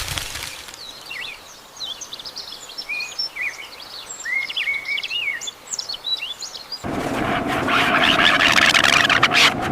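Small birds chirping, many short quick chirps overlapping. About seven seconds in, a louder, dense noisy sound with a steady hum and sharp clicks cuts in over them.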